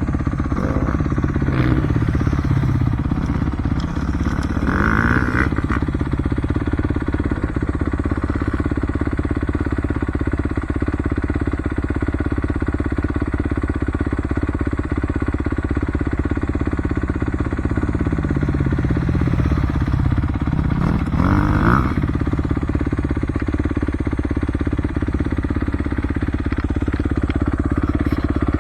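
Motocross bike engine running continuously, its pitch rising and falling several times as the throttle is worked.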